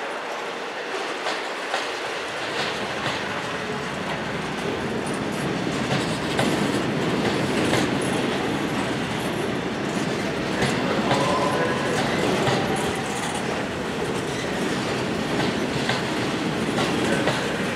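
Coal train wagons rolling past, wheels clicking over rail joints in a steady clickety-clack, with faint wheel squeal at times.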